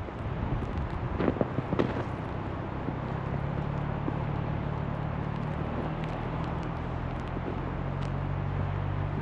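Wind and snow noise with a few crunching steps in snow. From about three seconds in, the low steady hum of a motor vehicle's engine sets in and shifts pitch slightly partway through.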